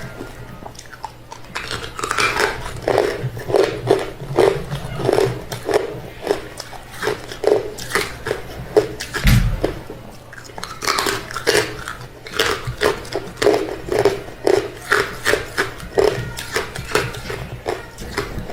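Close-miked chewing of hard refrozen crushed ice: rapid, irregular crunches, two to four a second, in runs with brief pauses.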